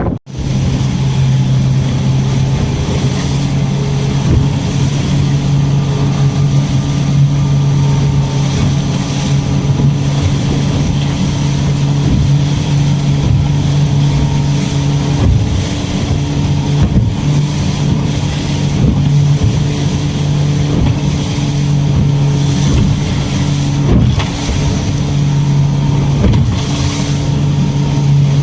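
Boat engine running steadily at a constant speed, a continuous low drone with a fixed pitch.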